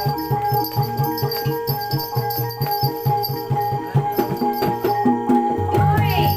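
Javanese reog-style ensemble music: drums beating a quick, even rhythm of about four to five strokes a second, with rattling percussion and a held high note over them. The low beat drops out briefly near the end and returns heavier.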